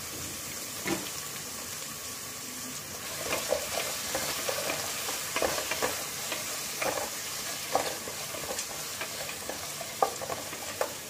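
Chopped shallots, green chillies and whole spices sizzling in hot oil in a steel pot as a spoon stirs them, with short irregular clatters of the spoon against the pot over the steady sizzle.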